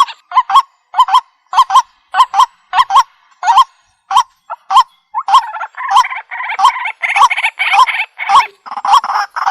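Waterhen (jal murgi) calling: a short note repeated about two or three times a second, thinning out around the middle and then coming thicker and more crowded for the rest.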